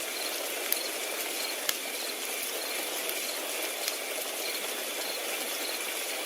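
Crickets chirping steadily in an even pulse, about one chirp every half second, over the steady hiss of a wood fire burning, with a few sharp crackle pops from the fire.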